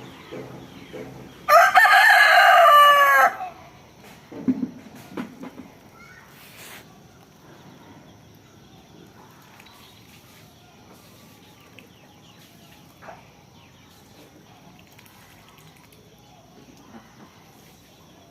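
A rooster crows once, loud, about one and a half seconds in: a single call of just under two seconds. A few short, low sounds follow a couple of seconds later, then only faint background.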